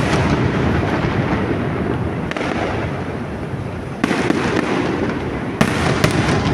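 Fireworks display: a continuous low rumble of distant bursts, with sharper bangs about two seconds in, at four seconds and twice close together near the end.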